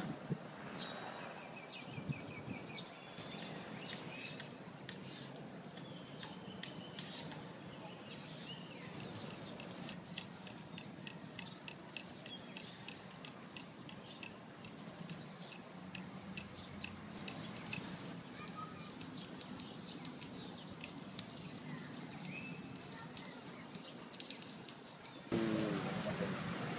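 Birds chirping: many short, high, repeated chirps and a brief trill over a faint steady background hum. Near the end the overall sound suddenly grows louder.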